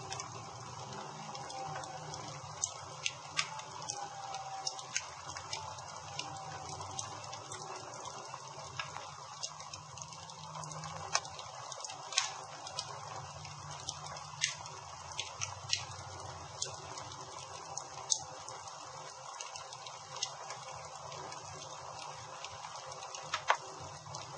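Campfire burning with a steady hiss and irregular sharp crackles and pops from the wood. Faint whistles falling in pitch are heard in the first few seconds.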